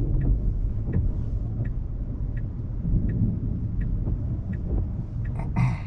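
Turn signal ticking steadily, about one tick every 0.7 seconds, over a steady low rumble inside the car's cabin.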